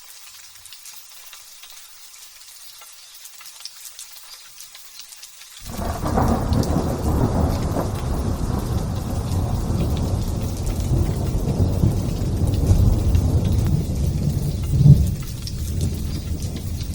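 Light drizzle patters softly, then about five and a half seconds in a loud rumble of thunder breaks in suddenly and rolls on, swelling once more near the end before easing a little.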